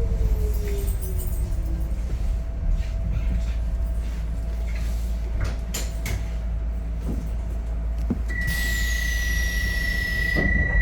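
Docklands Light Railway train heard from inside the carriage, a low rumble with a motor whine falling in pitch as it slows into a station. About eight seconds in, a steady high beep sounds along with a hiss, as the sliding doors open.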